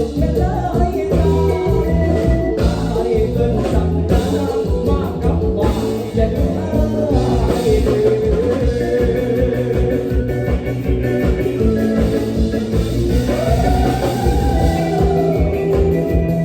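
Live Isan mor lam music in the toei style: a band with a singer playing over a steady drum beat and a heavy bass line.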